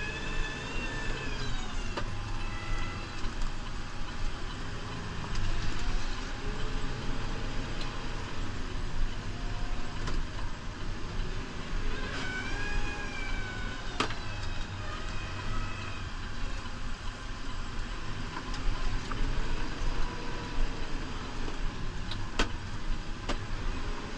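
New Holland Powerstar 75 tractor's diesel engine running steadily, with a whine that rises and falls every few seconds and an occasional sharp click.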